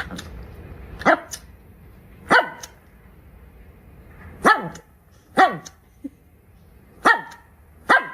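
A dog barking: six single barks spread a second or so apart, each dropping in pitch.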